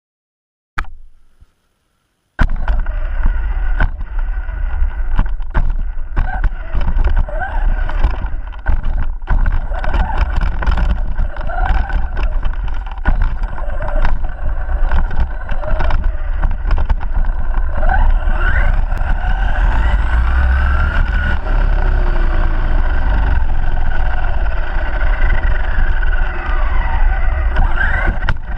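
ARRMA Granite BLX radio-controlled monster truck driving, its brushless electric motor whining up and down in pitch as it speeds up and slows, over a heavy low rumble with scattered clicks. The sound starts abruptly a couple of seconds in, after a short silence.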